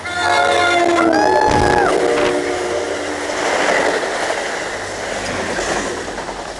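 NJ Transit diesel locomotive's air horn sounding in two short blasts in the first two seconds. Then the loud rush of the train's cars passing close by at speed without stopping.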